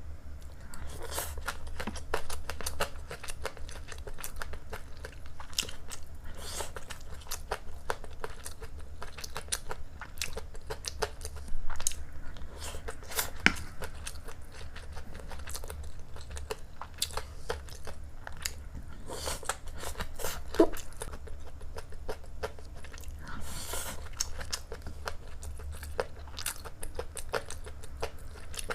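Close-miked eating of fried rice with waipo cai: steady chewing and biting with many small clicks and mouth noises, over a steady low hum.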